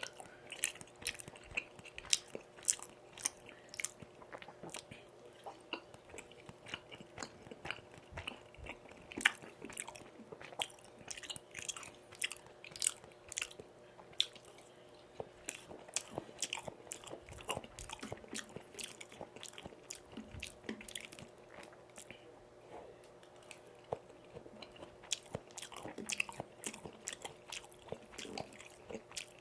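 Close-miked wet chewing and biting of tteokbokki rice cakes and pan-fried jeon, with many short sharp mouth clicks and smacks, over a faint steady hum.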